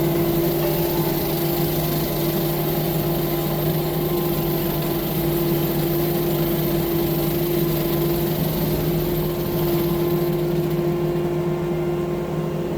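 An engine running steadily at constant speed, holding one even pitch with no changes in load.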